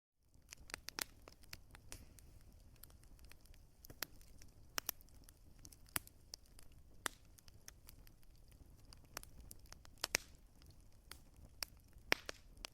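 Wood fire crackling, with irregular sharp pops and snaps over a low steady rumble of burning; the sound starts from silence at the very beginning.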